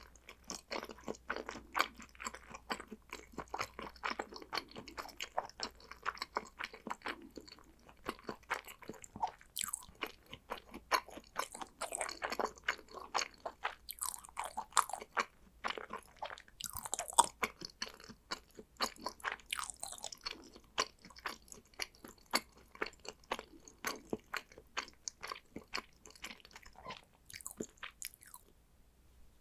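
A person chewing salmon sushi, with rapid wet smacking and clicking mouth sounds that stop about a second before the end.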